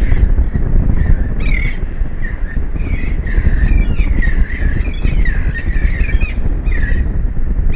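Birds calling harshly over and over, a dozen or so short squawks that come thickest in the middle, over a heavy rumble of wind on the microphone.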